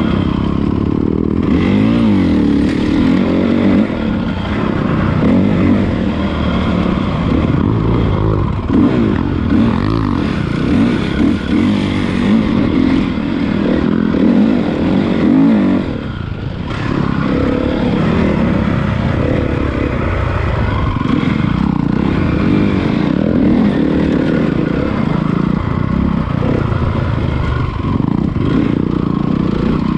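Honda CRF450 motocross bike's single-cylinder four-stroke engine running under way, revving up and down with the throttle, with a brief drop in revs about sixteen seconds in.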